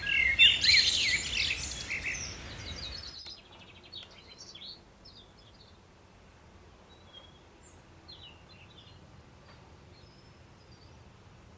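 Garden birds chirping and calling: a loud burst of rapid chirps and whistles for about the first three seconds, then the background hiss drops away abruptly and only fainter, scattered chirps follow.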